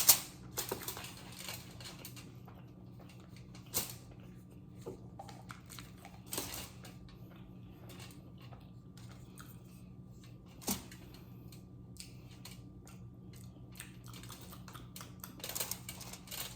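Close-miked eating sounds: scattered sharp crunches and mouth clicks while chewing, with a cluster of them near the end, over a steady low hum.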